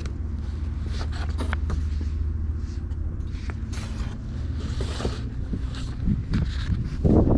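Steady low vehicle engine hum, with scattered light clicks and knocks and a louder rustle or bump near the end.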